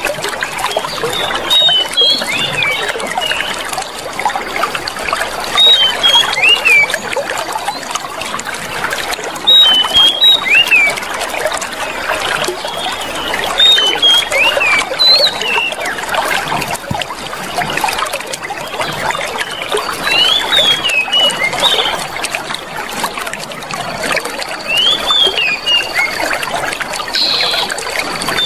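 Clear water trickling and flowing steadily, with short bird chirps and whistles breaking in every few seconds.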